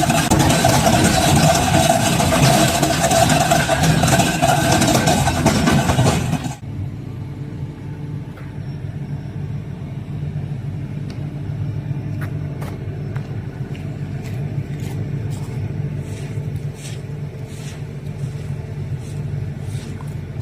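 Excavator drum cutter grinding into basalt: a loud grinding noise with a steady whine that cuts off suddenly about six seconds in. After that the excavator's diesel engine runs on steadily, with scattered sharp clicks.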